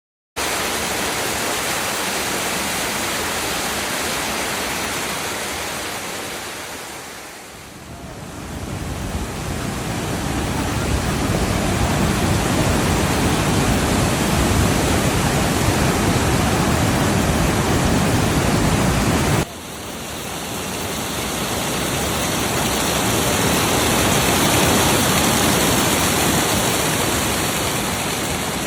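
Loud, steady rush of fast-flowing mountain water, a stream or waterfall. It dips and swells back once, then cuts off abruptly and fades back in.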